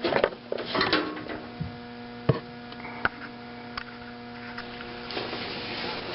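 Steady electrical hum, with a few sharp knocks and clicks of metal parts being handled and a rough scraping near the end.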